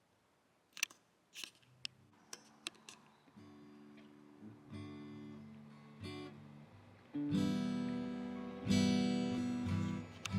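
Acoustic guitar music: a few sharp clicks, then softly plucked notes that build into loud strummed chords about seven seconds in.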